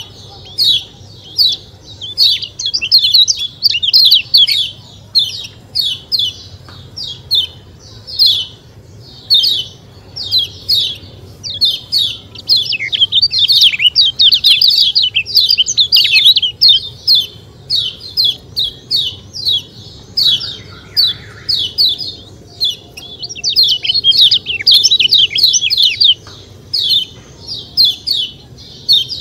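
Kecial kuning (yellow white-eye) giving rapid, high 'ciak ciak' chip calls in quick bursts of short falling notes, repeated over and over.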